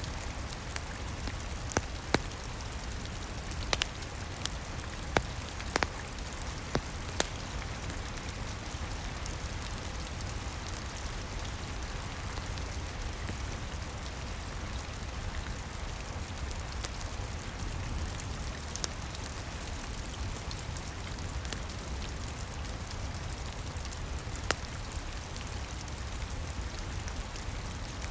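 Steady rain hiss with a low rumble, over which a fireplace crackles with sharp pops: several in the first seven seconds, then a couple more later on.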